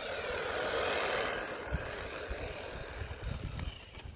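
Remo Hobby 1631 RC monster truck's stock brushed electric motor whining with tyre noise on the road as it drives past. The sound shifts in pitch, is loudest about a second in, and fades away towards the end.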